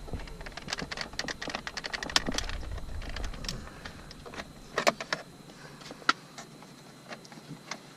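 Rapid small clicks and rattles from undoing the Phillips-head screws on a plastic dash panel and handling the loose parts, dense for the first few seconds, then sparser with a few sharper clicks.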